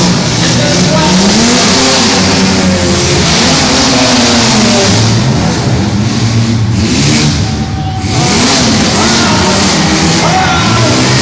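Car engines revving hard in a race, their pitch repeatedly rising and falling as the drivers get on and off the throttle, over a dense wash of noise. There is a brief drop about eight seconds in.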